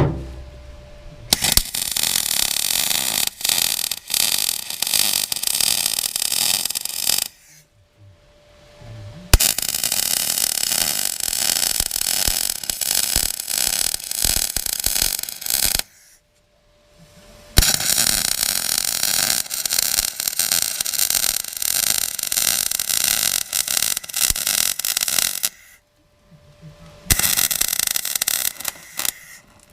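Welder laying weld beads on the thin, corroded steel of a tractor loader bucket, in four long runs of steady crackling and sputtering, each stopping for a second or two between runs.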